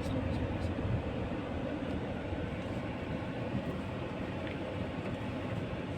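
Steady low rumble of a car engine and road noise, heard from inside the cabin as the car creeps along.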